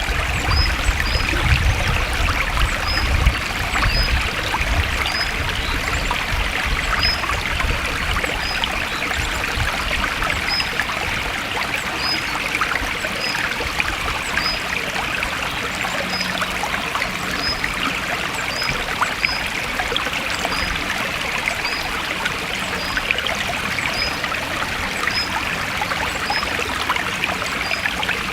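Forest stream water trickling and flowing steadily, with a short high chirp repeating about once a second over it. A low rumble sits under the water for the first few seconds, then fades.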